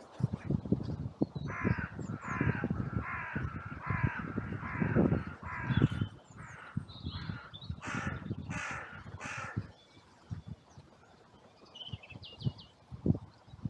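Crow cawing in a rapid series, about two caws a second, followed by a few more louder, harsher caws, with low thumps and rumble underneath.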